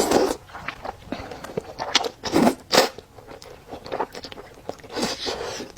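A person eating fried rice noodles close to the microphone, with irregular wet chewing and biting sounds.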